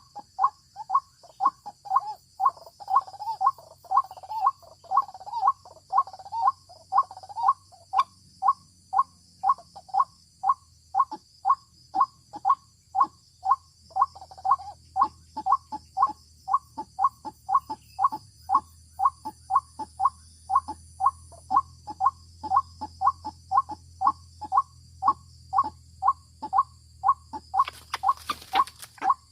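White-breasted waterhen (ruak-ruak) calling over and over, about two harsh notes a second. A brief scratchy noise comes near the end.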